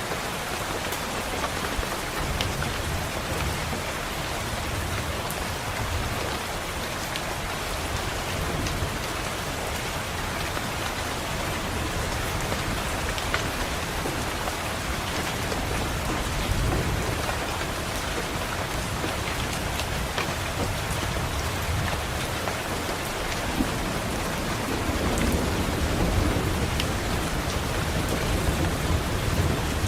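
Steady rain pattering on a window, with low rolls of distant thunder swelling about halfway through and again near the end, and occasional sharp ticks.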